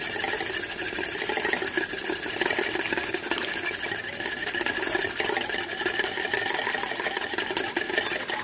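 Small handheld electric whisk running steadily in a pot of milk, frothing it.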